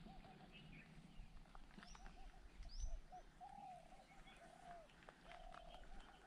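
Faint birdsong: a run of low, arched notes, with a few short whistles that sweep sharply upward. A soft low bump comes about three seconds in.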